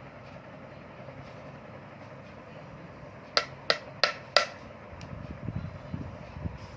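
Four quick metallic clinks with a brief ring, about a third of a second apart, as metal parts are knocked together, followed by low bumps and rustle of the parts being handled.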